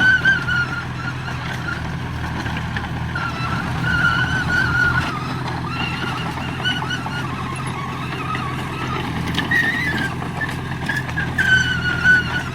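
Diesel engine of heavy earthmoving machinery running steadily, with a high wavering whine that fades in and out.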